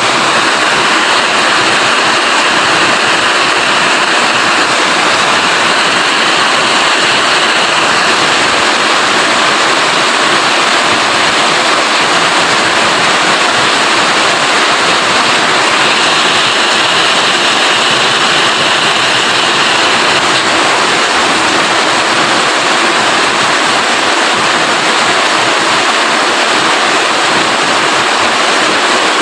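Steady heavy rain, a dense even hiss, a little brighter for the first several seconds and again a little past halfway through.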